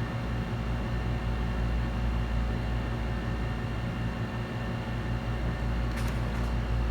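Steady drone of an electric fan or blower at the repair bench, with a low hum under it and a faint click about six seconds in.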